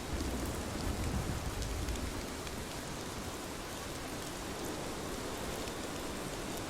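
Steady rain falling on a surface, a dense hiss with fine pattering drops. A low rumble sits under it for the first couple of seconds, then fades back.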